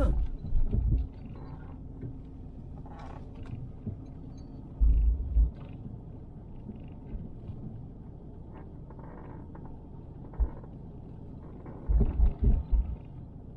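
Car driving, its road and engine noise heard from inside the cabin as a steady low rumble, with a few short low thumps about five seconds in, once more after ten seconds, and a cluster near the end.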